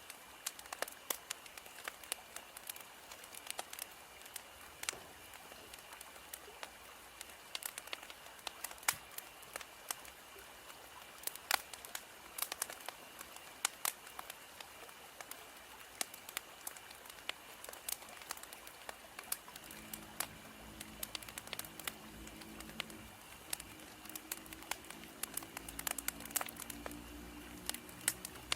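Wood fire crackling: irregular sharp pops and snaps from burning firewood over a soft hiss. A faint low hum joins about twenty seconds in.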